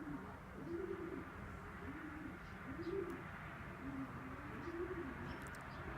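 Racing pigeons cooing: a series of low, warbling coos, roughly one a second.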